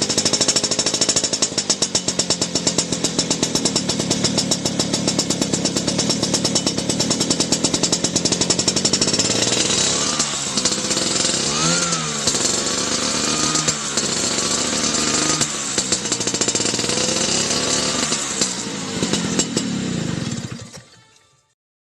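Vintage two-stroke Vespa scooter engine running through an aftermarket racing exhaust: a fast, even pulsing idle for about nine seconds, then several short revs that rise and fall. The sound cuts off shortly before the end.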